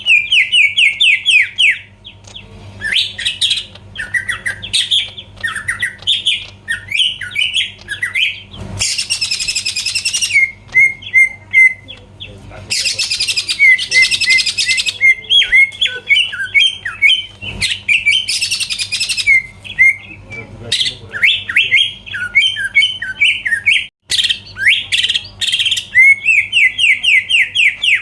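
Greater green leafbird (cucak ijo) singing loudly and without pause: fast runs of sharp chirping notes, broken three times by harsh, raspy bursts of about two seconds each.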